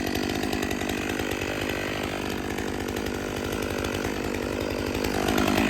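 Stihl 500i two-stroke chainsaw running at full throttle through a cut in firewood, its engine note wavering and sagging slightly near the end as the chain takes load.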